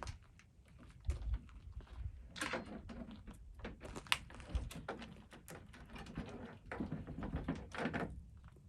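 Metal saw chain clicking and rattling as the old chain is worked off the chainsaw bar and sprocket by hand, with irregular clinks and a few louder knocks.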